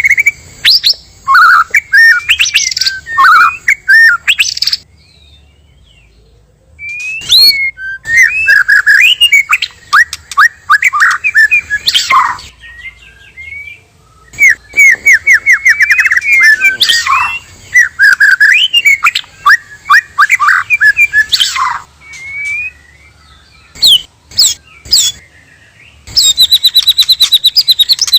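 White-rumped shama singing: loud bursts of varied whistles, trills and chattering phrases with short pauses between them, and near the end a fast run of repeated high notes.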